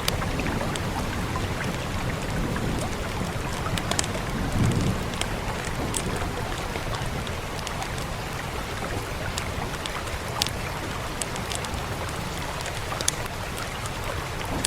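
Steady rain, with sharp fireplace crackles and pops scattered through it. A brief low rumble comes about four to five seconds in.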